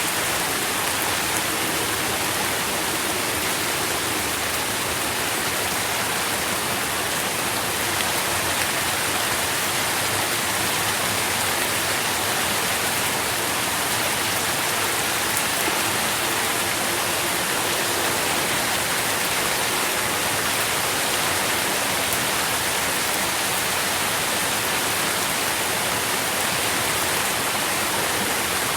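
Steady rain falling, a continuous even hiss of many drops with fine pattering.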